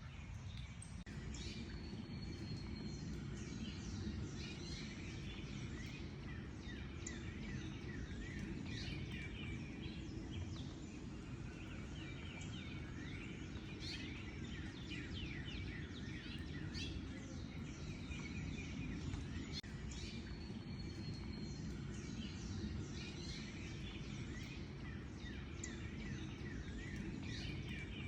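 Several songbirds chirping and singing at once, many short calls and quick sweeps overlapping, over a steady low background rumble.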